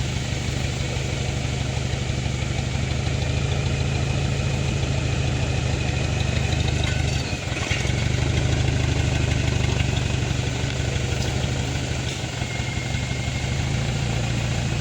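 A vehicle's engine running steadily at low revs, its level dipping briefly about seven seconds in and again about twelve seconds in.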